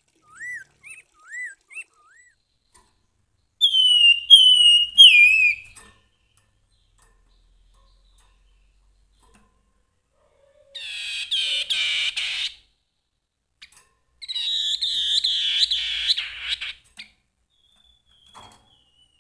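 Grey-headed babbler singing. A series of short rising-and-falling notes gives way to three loud descending whistles, followed by two fast chattering trills a couple of seconds apart.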